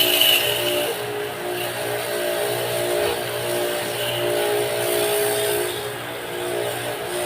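Electric pressure washer running: its motor and pump give a steady hum that swells and eases about once a second, with the hiss of the spray over it.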